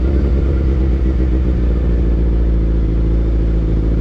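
Suzuki Gixxer sportbike engine running steadily while being ridden at an even pace, with a constant low rumble under it.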